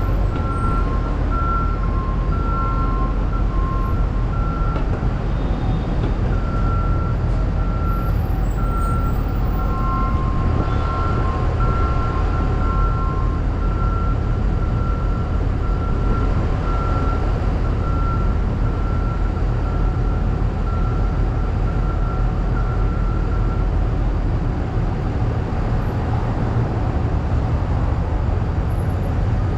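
Steady street traffic rumble with a vehicle's reverse alarm beeping at a regular pace; the beeping stops a few seconds before the end.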